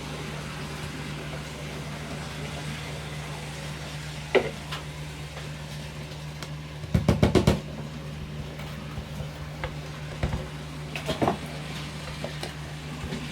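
Model railway track being pinned down by hand over a steady low hum: a sharp click, then a quick run of about six taps near the middle, and scattered lighter clicks and knocks afterwards.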